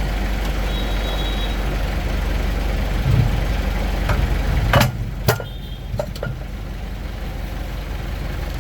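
Truck engine idling steadily, with a few sharp clicks between about four and six seconds in; the drone drops slightly in level after the clicks.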